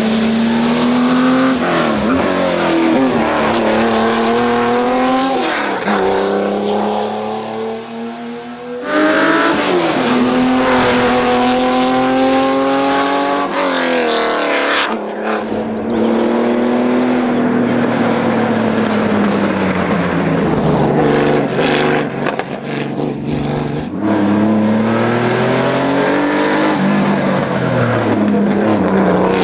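Porsche rally cars accelerating hard on a hill climb. The engine note climbs steeply through each gear and drops at each shift or lift-off, several times over, with a sudden jump to another car's run about nine seconds in.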